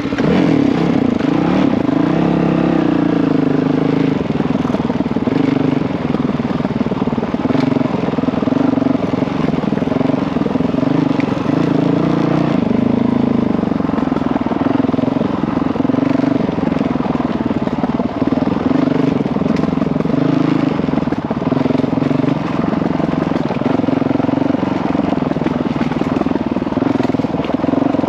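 Honda CRF dirt bike's single-cylinder four-stroke engine running steadily while riding, its pitch rising and falling a little with the throttle.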